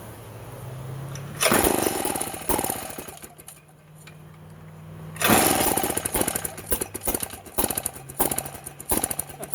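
1950s David Bradley chainsaw made by Strunk, with a straight-pipe exhaust, being started after sitting. About a second and a half in it fires loudly for a moment and dies away. About five seconds in it catches again and runs rough and uneven in ragged popping bursts, not yet holding a steady idle.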